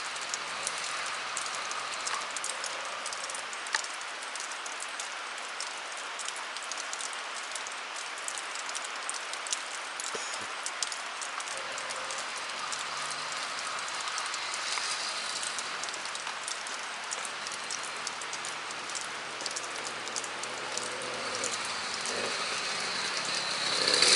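Steady rain falling and pattering on surfaces, with many small drop ticks through it.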